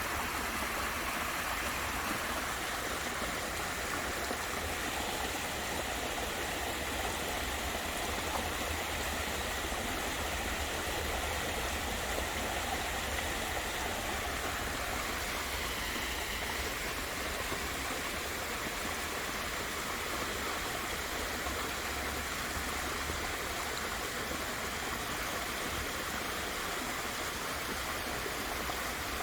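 Water of an ornamental garden waterfall pouring and splashing, a steady rushing.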